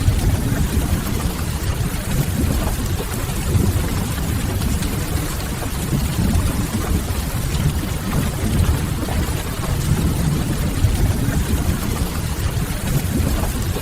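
Steady rain with a deep, low rumble underneath, mixed with an occasional faint crackle of a wood fire.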